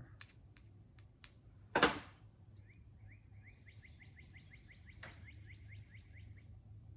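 A few light clicks and one sharp knock of parts being handled, then a bird trilling: a rapid series of rising chirps, about five a second, for about four seconds over a low steady hum.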